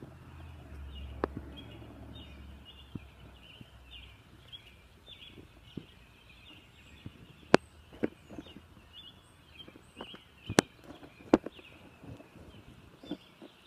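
Many small birds chirping in a continuous chatter of short, high notes. A low rumble sits under the first few seconds, and sharp clicks or knocks break in several times in the second half.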